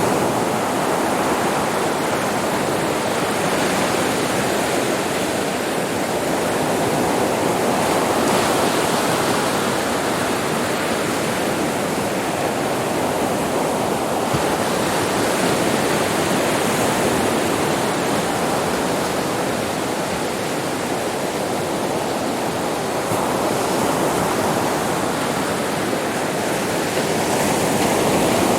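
Sea waves washing onto a beach: a continuous rush of surf that swells and eases every several seconds.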